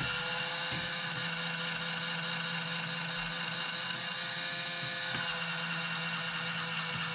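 LEGO electric motor running, driving the fan through plastic gears with a steady whine and gear whirr. The pitch shifts slightly about five seconds in.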